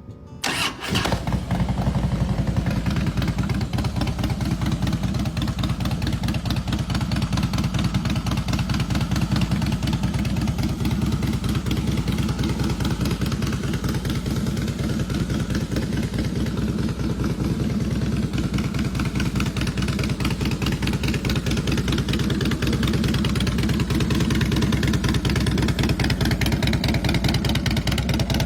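Harley-Davidson Heritage Softail's V-twin engine starting up about half a second in, then idling steadily with a fast, even run of firing pulses.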